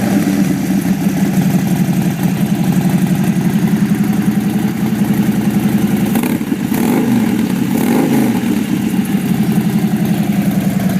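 2011 Harley-Davidson Dyna Super Glide Custom's Twin Cam 96 V-twin idling with a lumpy, pulsing beat through an aftermarket Vance & Hines 2-into-1 exhaust, blipped twice about six and eight seconds in.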